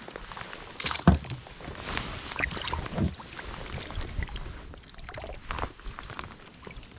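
Water splashing and sloshing around a small boat, with irregular knocks and clicks. The loudest knock comes about a second in.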